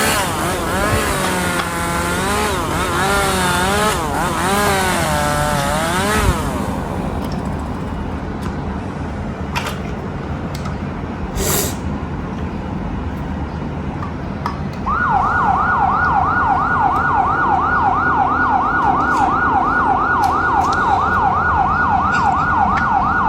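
A siren wailing with a slow, uneven rise and fall over a steady vehicle hum, stopping about six seconds in. After a stretch of hum with a sharp click, a fast yelp siren starts about fifteen seconds in, sweeping up and down about four times a second.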